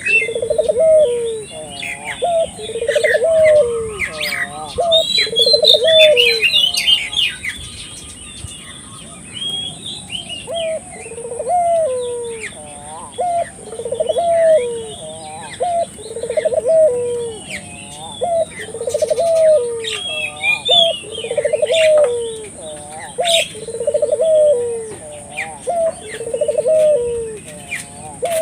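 Puter doves (collared doves) cooing over and over, a rolling coo repeated about once a second, in vigorous 'gacor' form. Small birds chirp higher up, over a steady high whine.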